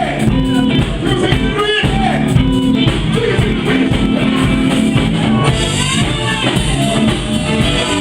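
Live band playing funk music with a steady beat.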